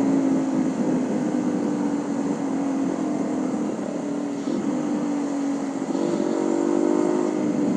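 Honda CB150R's single-cylinder engine running while riding, a steady hum whose pitch dips and rises briefly around four and six seconds in.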